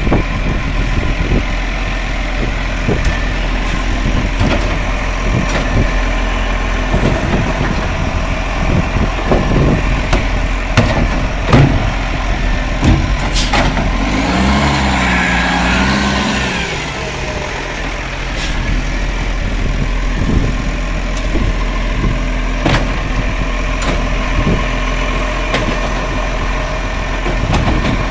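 Garbage truck engine running, with scattered knocks and clanks throughout. About halfway through, a pitched whine rises and falls for a few seconds.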